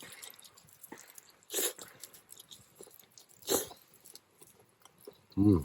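Someone chewing roasted chicken thigh, with two short, louder crunching bites about one and a half and three and a half seconds in.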